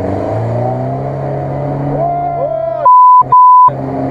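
Ford Maverick SUV's engine running steadily as it wades into the river, then two short, very loud, steady-pitched censor bleeps about three seconds in that blank out everything else.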